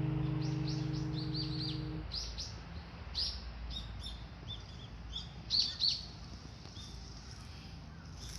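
Small birds chirping: many short, high chirps in quick succession, the loudest pair about halfway through.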